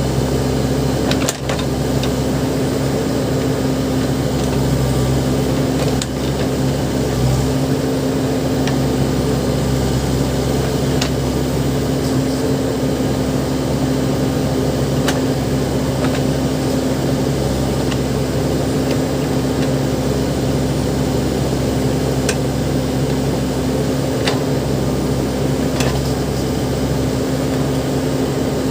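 Backhoe loader's diesel engine running steadily, with a few sharp clicks or knocks scattered through.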